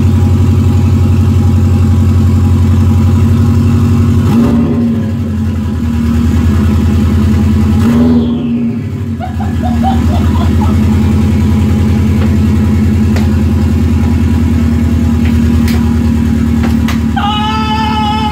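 2002 Subaru WRX turbocharged flat-four running loud and steady with no exhaust fitted, shortly after a cold start. The note changes briefly twice, about four and eight seconds in, and a short higher-pitched sound comes over it near the end.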